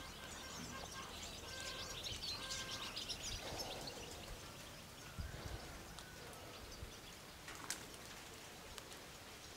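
Small birds chirping and twittering, thickest in the first few seconds and sparser after. There are a few soft low knocks about halfway and a single sharp click near the end.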